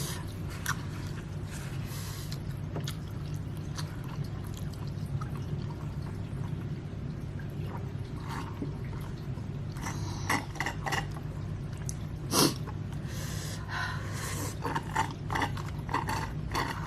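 Close-miked eating and drinking sounds: scattered wet mouth clicks, slurps and sips, growing busier in the second half, over a steady low hum.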